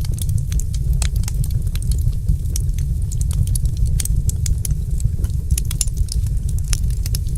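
Wood fire in a fireplace crackling, with many sharp irregular pops and snaps, several a second, over a steady low rumble of the burning.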